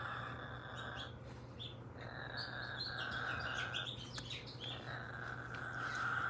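A bird calling: three drawn-out, scratchy calls about a second long each, with short chirps in between.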